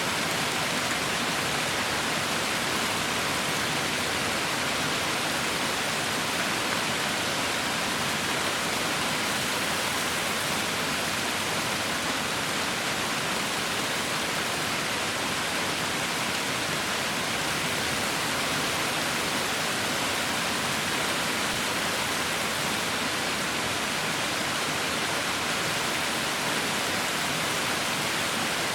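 Heavy rain falling as a steady, even hiss with no distinct drops or breaks.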